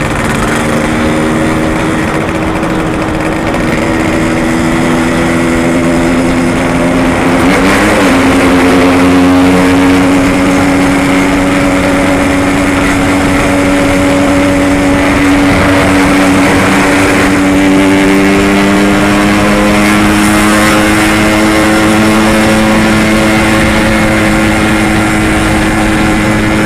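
Yamaha RX-King's two-stroke single-cylinder engine running steadily under way. Its pitch dips and picks up again about eight seconds in.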